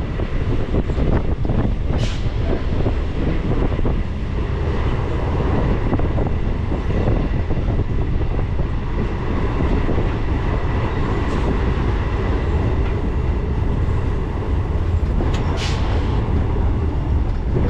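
Electric suburban local train running along the track: a steady deep rumble of wheels on rails, with two brief sharp high noises, about two seconds in and near the end.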